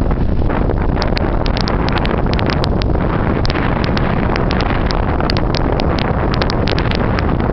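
Strong blizzard wind of about 40 mph buffeting the microphone in a steady, loud rumble, with frequent sharp crackles throughout.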